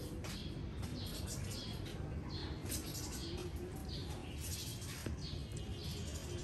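Small birds chirping repeatedly in short, falling calls, one or two a second, over a steady low hum.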